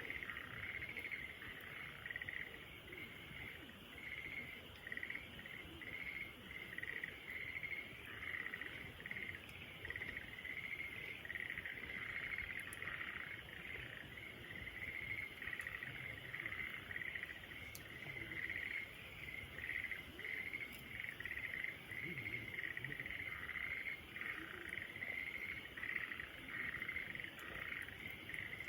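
A steady chorus of chirping crickets, a continuous pulsing trill, with a soft low crackle of a bonfire underneath.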